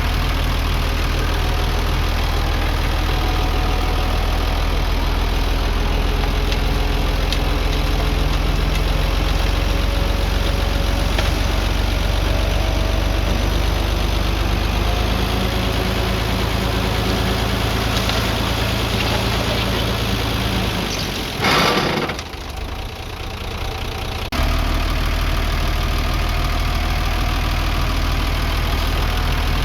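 Heavy machine's engine running steadily. About 21 seconds in there is a brief loud rushing noise, then the engine sound drops away for a few seconds and comes back abruptly.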